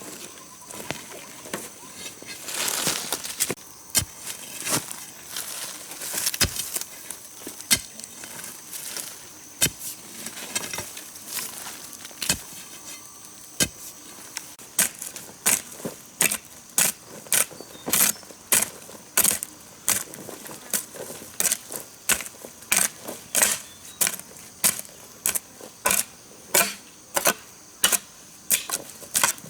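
Sharp knocks of a hand tool at work: irregular blows with some scraping at first, then, from about halfway in, a steady run of strikes at nearly two a second.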